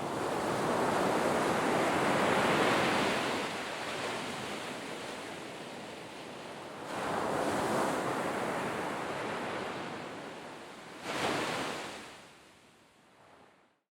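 Sea waves breaking and washing on the shore, swelling and ebbing in surges, with a sharper break about eleven seconds in before the sound fades out.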